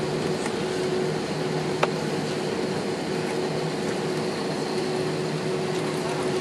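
Steady cabin hum inside an Airbus A319 on the ground, with a constant low drone and a single sharp click a little under two seconds in.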